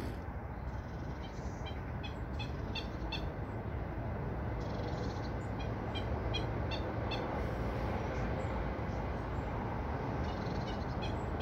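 Small birds chirping in quick runs of short, high notes, over a steady low rushing background noise.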